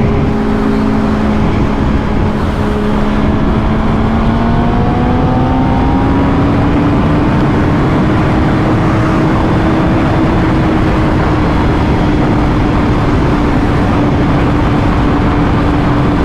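Motorcycle engine running at road speed under heavy wind rush. The engine note climbs smoothly from a few seconds in, then holds steady.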